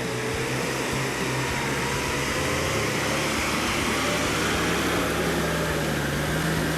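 Heavy logging truck's engine running steadily, with a loud rushing noise over a low hum.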